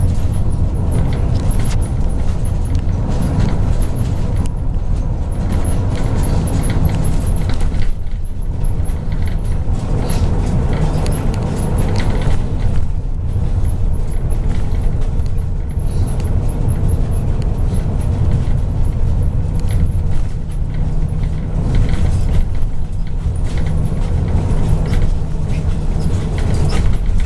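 MAZ 103 bus running on the road, heard from inside the passenger cabin: a steady low engine and road rumble with light rattling of interior fittings.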